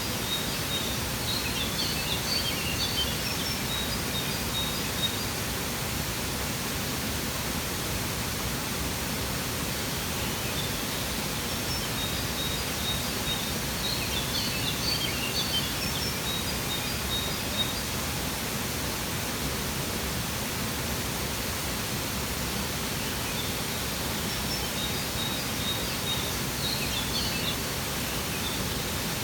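Steady rushing of a waterfall, with birds chirping in three short spells of high calls over it.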